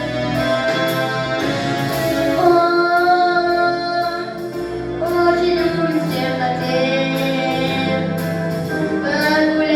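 A girl singing long held notes over an instrumental backing track.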